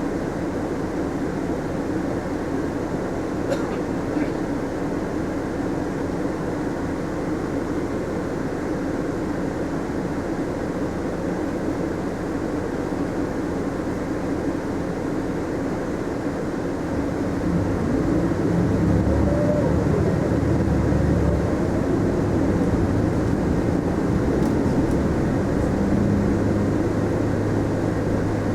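Mitsubishi Fuso Aerostar city bus heard from inside the cabin: steady engine and road noise. About two-thirds of the way in, the engine note grows louder and a whine rises and falls in pitch, as the bus pulls harder.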